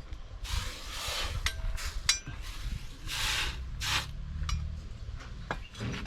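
Steel blade scraped in a few drawn strokes, with light metallic clinks and taps in between: a golok blade being worked by hand against an abrasive or file.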